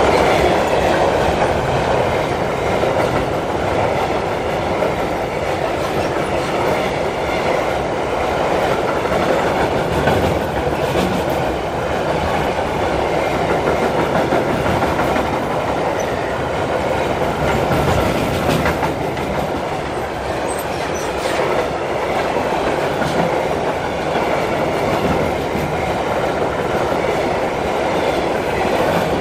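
Freight train of high-sided open goods wagons passing close at speed over a steel truss bridge: a steady, loud rumble of steel wheels on the rails, without a break.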